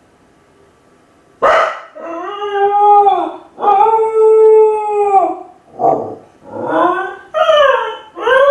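Kai Ken dog howling while left home alone. After a quiet start there is a sharp yelp, then two long, steady howls, then several shorter howls that slide down in pitch.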